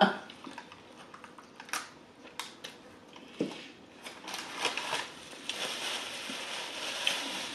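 Close-miked chewing of fried chicken, with scattered crunches and wet mouth clicks, then a paper napkin rubbed and crinkled between the hands over the last few seconds.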